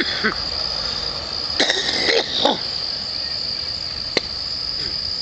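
Crickets trilling steadily at a high, unbroken pitch. A brief cluster of other noises comes about two seconds in, and a single sharp click a little after four seconds.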